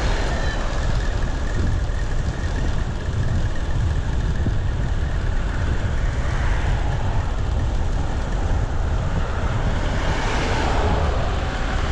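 Loud, uneven wind rumble buffeting the microphone while riding an electric bike at about 21 mph, with a swell of hiss about ten seconds in.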